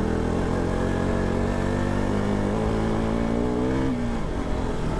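Single-cylinder motorcycle engine under way, its revs climbing slowly and then falling away sharply about four seconds in.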